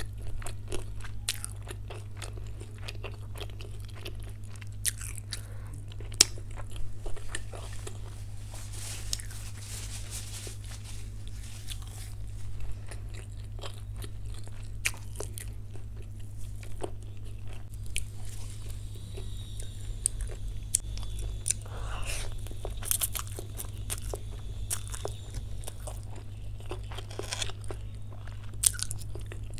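Close-miked eating: chewing and crunching bites of chilli chicken and chowmein, with many short wet mouth clicks scattered throughout. A steady low hum runs underneath.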